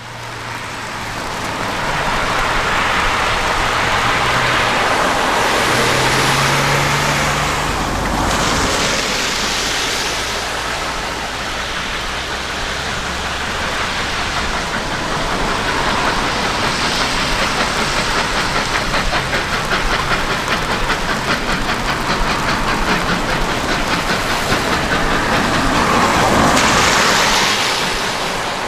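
A train running, heard as continuous loud rumbling noise. There is a low engine hum for the first several seconds, and a fast, even fluttering rhythm through much of the second half.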